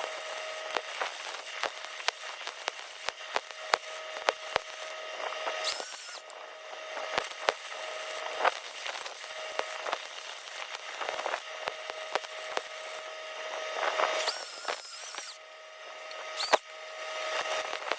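Electric arc welding on heavy steel: a continuous crackle with sharp pops and spatter, over a steady hum, with a few brief hissing flares.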